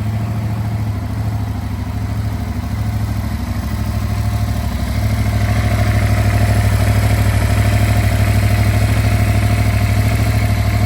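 Yamaha MT-07's parallel-twin engine idling steadily after a clean start, getting a little louder about halfway through.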